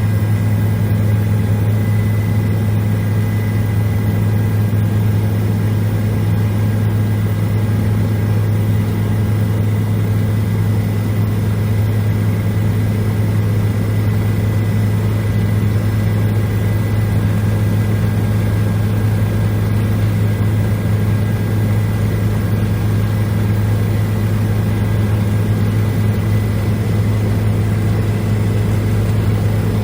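Helicopter in flight: a loud, steady drone with a strong low hum and a thin high whine above it, unchanging throughout.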